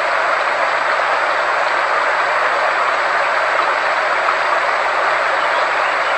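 Synthesized frequency-therapy sound: a steady, unchanging hiss of noise centred in the middle range, with faint steady tones beneath it.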